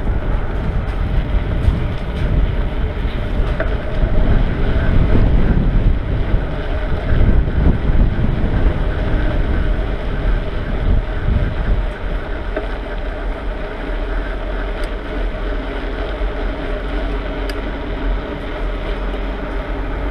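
Wind rumbling over the microphone of a camera carried on a moving bicycle, with road noise and a faint steady hum under it. The rumble swells for several seconds about a third of the way in, then settles.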